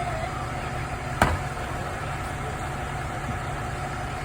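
Fire engine running steadily at the scene, a low rumble with a faint steady whine, broken by one sharp knock about a second in.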